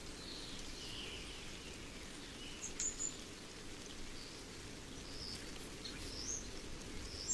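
Steady low rushing wind of a snowstorm, with a few faint, short high bird calls scattered through it.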